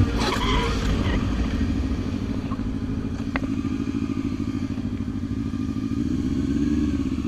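Motorcycle engine running steadily at low revs, picking up slightly near the end. A brief clatter comes right at the start, and a single sharp click about three seconds in.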